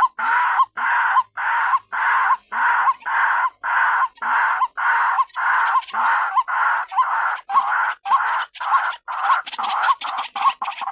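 White-breasted waterhen (ruak-ruak) calling: a loud, harsh note repeated about twice a second, quickening into shorter, faster notes near the end.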